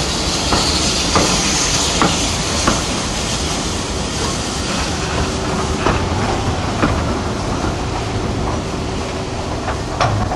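Passenger coaches of a steam-hauled train rolling slowly along a platform, heard from an open carriage window: a steady rumble and hiss, with a few separate clicks as the wheels pass over rail joints.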